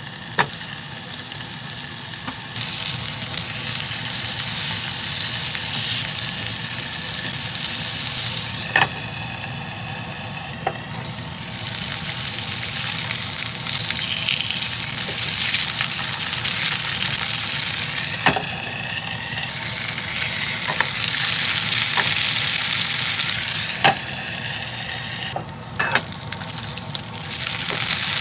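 Slices of pork belly sizzling and spitting in a hot pan, the frying getting louder a couple of seconds in. Sharp taps of a utensil against the pan come every few seconds.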